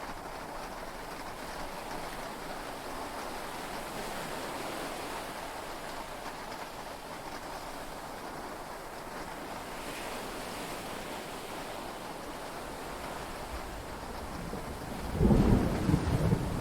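Steady heavy rain and sea noise heard from inside a yacht cabin, with a loud low rumble of thunder breaking in about fifteen seconds in.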